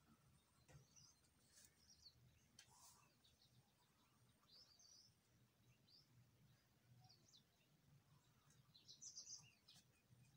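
Near silence with faint, scattered bird chirps over a low hum, with a brief cluster of louder chirps about nine seconds in.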